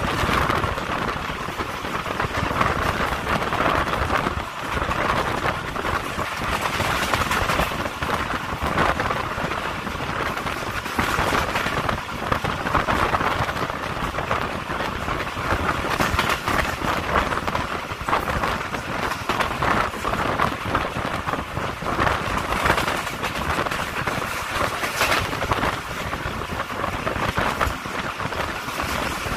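Pakistan Railways Awam Express passenger coach running at speed, heard from an open door: a steady rush of wheels on the rails and wind, with scattered knocks from the track.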